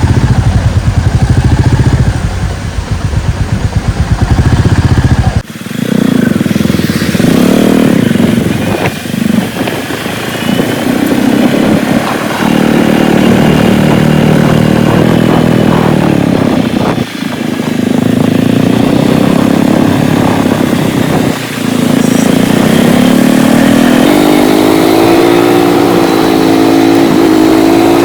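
Motorcycle engine running while being ridden. Its pitch rises and falls as it accelerates, with a few brief drops in level and pitch where it eases off or shifts gear. For the first five seconds or so a heavy wind rumble on the microphone dominates, then cuts off abruptly.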